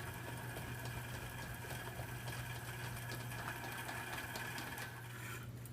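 Water dripping and trickling through holes in containers of a homemade rain simulator, with faint scattered drips, over the steady whine and hum of a small electric motor that drives the test cart; the whine cuts off about five seconds in.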